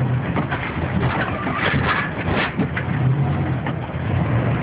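Van engine running while driving on snow and ice, heard from inside the cab: a steady low engine hum under tyre and road noise, with scattered knocks and rattles.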